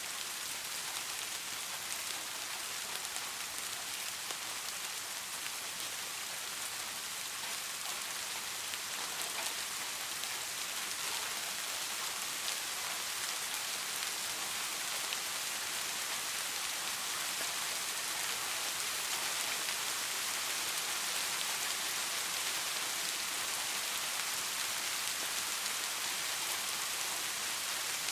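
Steady rain falling, an even hiss with many fine drop patters, without let-up or thunder.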